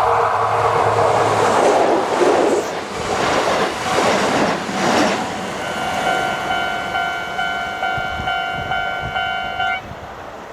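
A Kintetsu Minami Osaka Line train passing over a level crossing with a loud rush of wheel and track noise. The crossing's electronic warning bell rings on in an even, repeating pulse and cuts off suddenly near the end.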